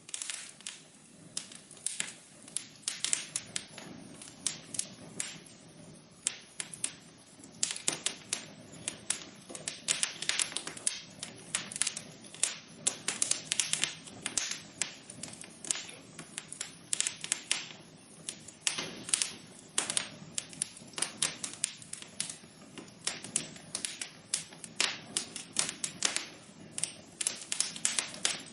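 Wood fire burning in a fireplace, crackling with a dense, irregular stream of sharp snaps and pops over a faint low rush.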